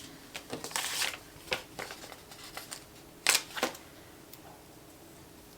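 Sticker sheets and paper being handled on a desk: scattered light rustles and clicks, with a couple of sharper snaps about a second in and around three and a half seconds in.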